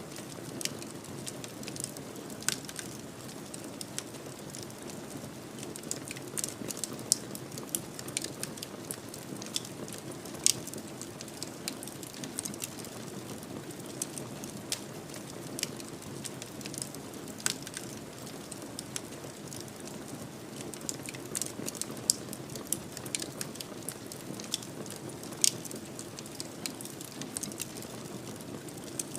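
Wood fire burning in a fireplace: a steady soft hiss with irregular crackles and pops throughout, about half a dozen of them sharper and louder.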